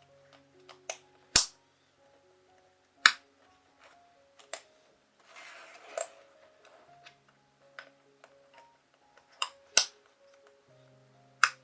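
Sharp plastic clicks and snaps from computer keyboard parts being handled, about six of them spread irregularly, with a brief rustle in the middle, over soft background music of plucked or mallet-like notes.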